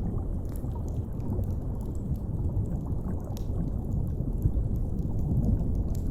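Deep, steady underwater rumble, with a fire crackling in sparse faint pops over it.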